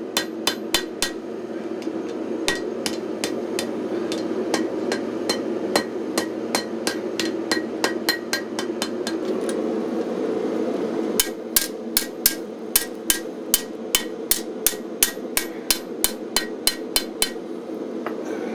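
Hand hammer striking hot 5160 spring steel on an anvil, each blow ringing sharply. The blows are scattered through the first half, then come in a quick, even run of about three a second for several seconds. A steady roar runs underneath.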